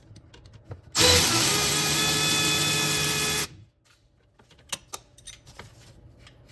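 A cordless power tool with a socket and extension runs steadily for about two and a half seconds, loosening a bolt, then stops; a few light clicks follow.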